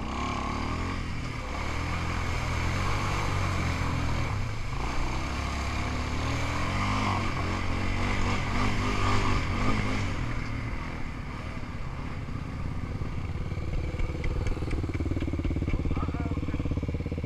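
Small off-road vehicle engine running under throttle, its pitch rising and falling as it is revved through the first ten seconds, then running steadier.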